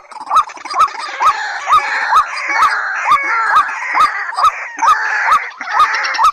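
Recorded calls of white-breasted waterhen and watercock: a short rising call repeated evenly about twice a second over a dense chattering chorus of bird calls.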